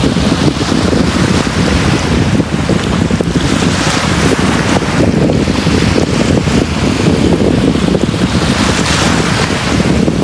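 Sea waves washing onto a beach: a continuous rushing surf that swells and eases every few seconds, under a steady low rumble.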